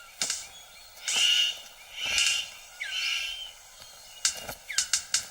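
Male superb bird of paradise calling in courtship display: three harsh calls about a second apart, then a quick run of sharp clicks near the end. Thin gliding whistles of other forest birds run underneath.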